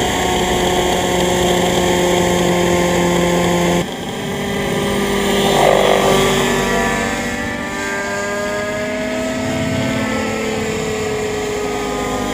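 AS90 model engine with a new muffler, running steadily with an even, smooth note and no popping. About four seconds in the sound changes abruptly, and then the pitch rises and eases off.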